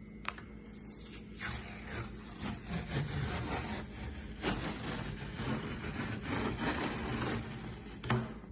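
Wood being worked with a tool: uneven rubbing and scraping that swells and fades, with a sharp knock just after the start and another near the end.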